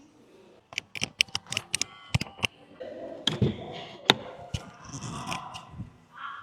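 A quick run of sharp clicks and taps, then a couple of duller knocks and a softer scraping sound.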